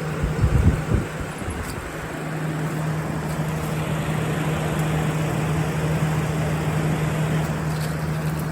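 General Electric Thinline window air conditioner running on fan only, compressor off: a steady rush of air with a constant motor hum. A few low thumps sound in the first second.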